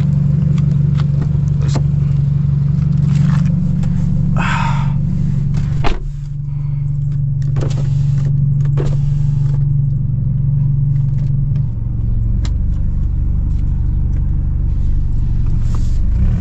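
Straight-piped, Stage 2+ tuned BMW F30 328i's turbocharged four-cylinder droning steadily while driving, heard from inside the cabin. A sharp knock comes about six seconds in, and the drone's pitch steps down there and again about twelve seconds in.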